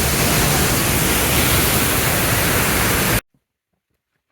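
Loud, steady rushing noise with no tones in it, cutting off abruptly about three seconds in.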